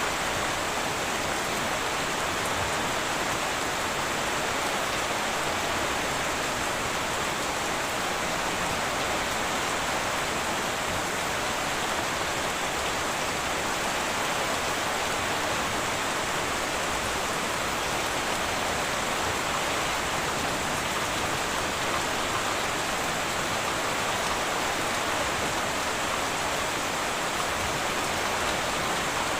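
Heavy rain falling steadily on a metal roof, an even unbroken patter with no thunder.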